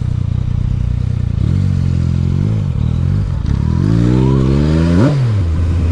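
Yamaha MT-09's three-cylinder engine running steady at low revs, then revving up briefly about two seconds in, easing off, and climbing steadily in pitch until it drops sharply about five seconds in and settles back to a steady run.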